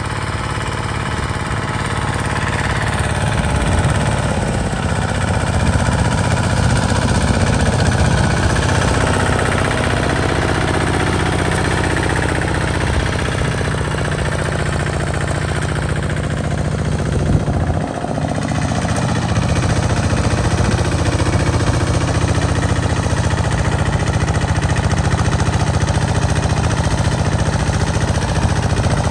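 Hand tractor's single-cylinder diesel engine chugging steadily under load while plowing. It grows louder over the first few seconds and dips briefly about two-thirds of the way through.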